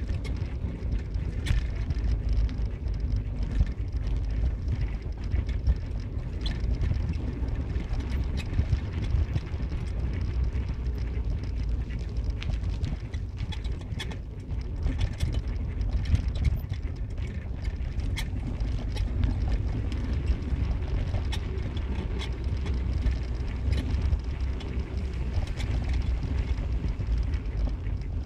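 A car driving: a steady low rumble of road and engine noise, with scattered small knocks and clicks throughout.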